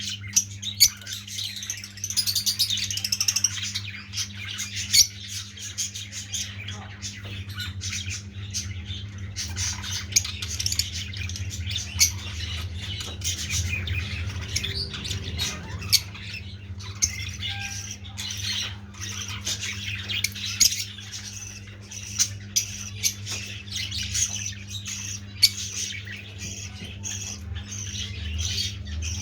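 Blue masked lovebirds chattering and squawking together: a continuous, busy stream of shrill chirps and sharp, piercing calls, with a steady low hum underneath.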